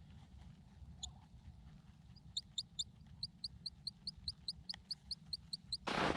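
A small bird calling a fast series of short, high, slightly rising notes, about five a second, beginning about two seconds in and stopping near the end, with a few faint clicks before it.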